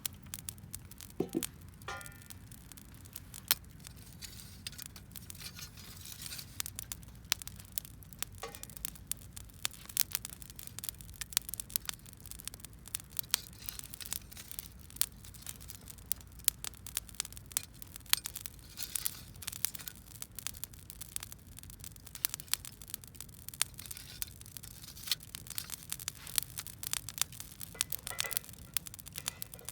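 Wood fire crackling: irregular sharp pops and snaps, many a second, over a low steady background.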